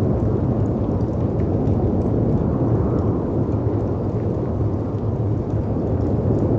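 Steady deep rumble of storm wind and sea surf, with faint scattered crackles from a wood fire.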